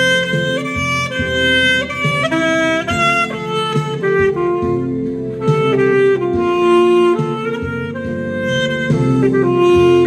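Instrumental music: a saxophone plays a melody of held notes, stepping from pitch to pitch, over a steady backing track.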